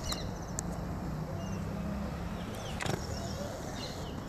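Small birds chirping with many short, high calls over a steady low background noise, with a sharp click about three seconds in.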